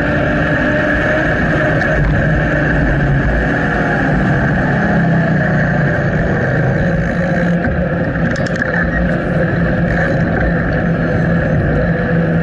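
Steady rushing ride noise from a bicycle in motion, with a low wavering hum underneath and no letup.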